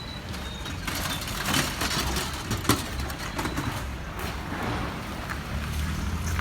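A heavy vehicle or machine engine running with a steady low hum, mixed with scattered clattering and knocks.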